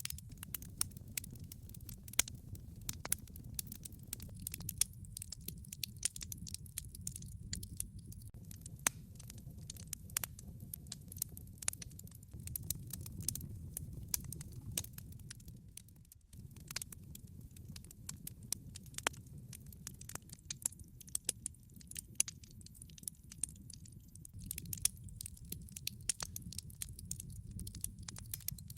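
Wood fire crackling, with irregular sharp pops and snaps from burning logs over a steady low rumble of the flames.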